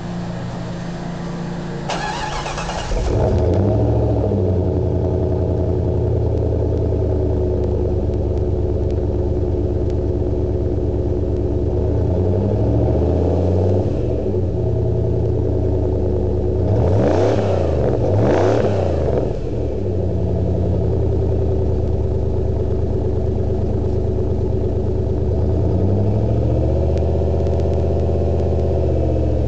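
Exhaust of a 1996 Jeep Grand Cherokee's 5.2L V8 through an Aero Turbine 2525 muffler: the engine idles steadily after a jump in loudness about three seconds in, is blipped twice in quick succession a little past the middle, and rises and settles once more near the end.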